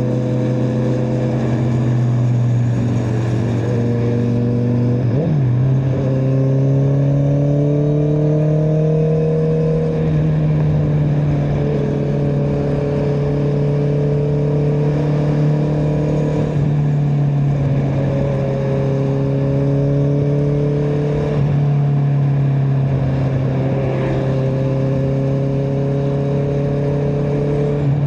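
Honda CBR650R's inline-four engine with an Akrapovic exhaust, heard from the riding motorcycle: a steady, loud engine note that climbs slowly in pitch, then jumps to a new pitch about five times as the rider changes gear or throttle.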